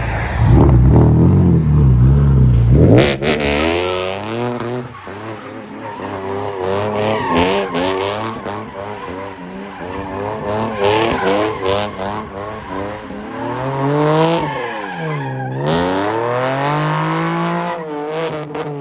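Chevy Camaro 3.6L V6 with an aftermarket exhaust, loud and low for the first few seconds, then revved over and over, its pitch climbing and falling with each blip.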